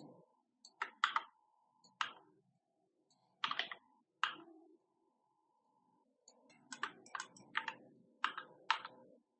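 Computer keyboard and mouse clicks in short scattered taps, with a quicker run of clicks in the last few seconds.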